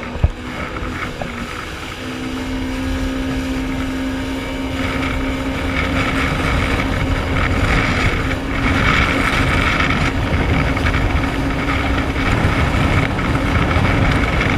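Jet ski engine running under throttle, its steady note stepping up about two seconds in and growing louder, with wind rushing over the microphone. A short sharp knock sounds just after the start.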